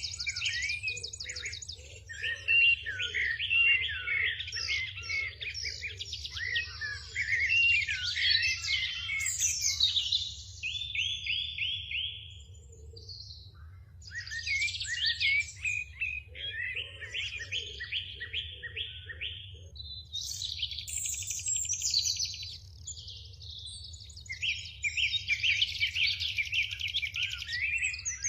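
Several small birds chirping and singing at once, with fast rattling trills and overlapping high calls. Twice a lower call pulses in a quick run of notes.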